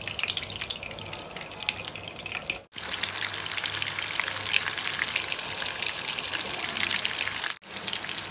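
Chicken seekh kebabs shallow-frying in hot oil in a nonstick pan: a steady sizzle full of small crackling pops. It breaks off for an instant twice, at cuts between clips.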